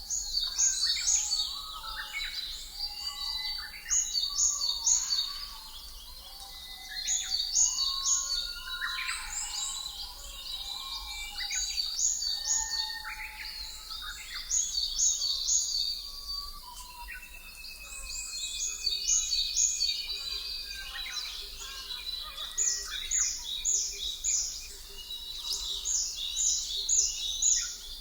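Birds chirping and singing, several calls overlapping, with groups of quick high chirps every few seconds over lower whistled notes and a faint steady hiss.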